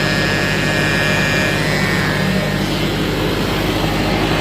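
Kubota tractor engine running steadily with a high whine from the hydrostatic transmission (HST). The whine fades a little past halfway. The owner blames the whine on a too-restrictive aftermarket hydraulic filter fitted at the last service.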